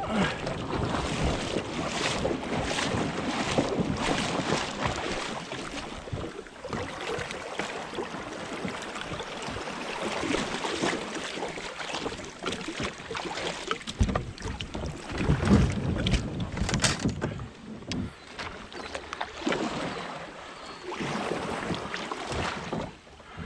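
Fast-flowing creek water rushing and rippling around a kayak, with gusts of wind buffeting the microphone now and then.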